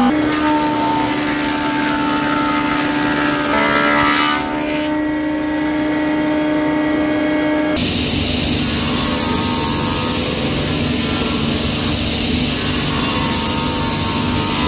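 Woodworking machine motors running steadily in a workshop, the sound changing abruptly twice as one machine gives way to another.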